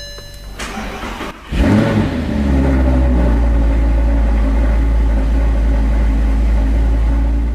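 Intro sound effect: a short electronic beep as a power button is pressed, then a car engine starts about a second and a half in and runs with a deep, steady rumble.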